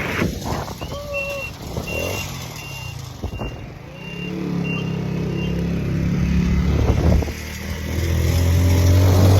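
A row of short, high electronic beeps, about two a second, then a motorcycle engine starts up and runs with a steady low note that grows louder toward the end.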